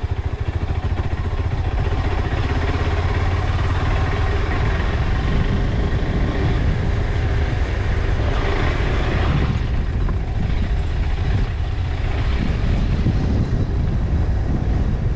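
Off-road motorcycle engine running steadily, a low rapid firing pulse under a broad noisy rush.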